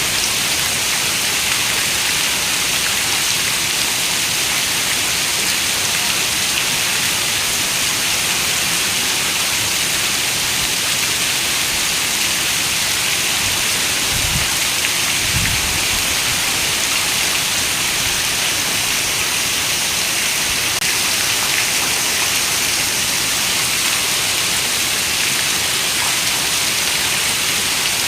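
Steady rain on a window, a dense even hiss at a constant level. Two short low rumbles come about halfway through.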